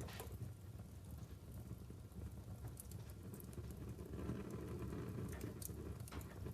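Wood fire burning in a fireplace: a low steady rumble of flame with sharp crackles and pops from the burning logs every second or two, and a louder swell of flame noise about four seconds in.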